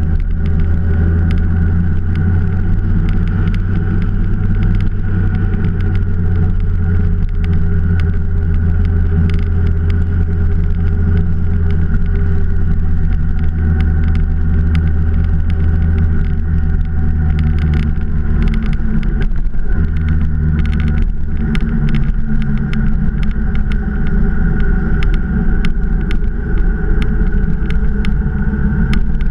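Motorcycle engine running at a steady cruising speed, its pitch holding nearly constant, with short crackles scattered over it.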